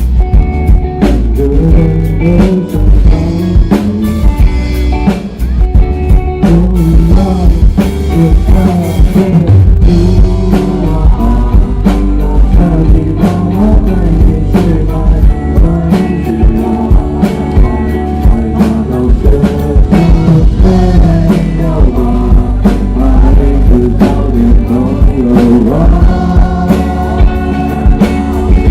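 Rock band playing with drum kit and guitar, with singing, loud and steady throughout.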